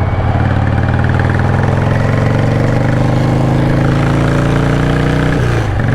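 Harley-Davidson V-twin motorcycle engine pulling under throttle, its pitch climbing steadily. A little before the end it dips briefly, as at a gear change, then picks up again.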